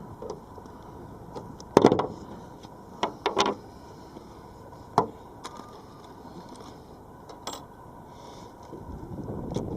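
A handful of sharp knocks and clunks from work on a narrowboat roof, the loudest about two seconds in, then a quick pair, then single knocks about five and seven and a half seconds in, over a low steady background noise.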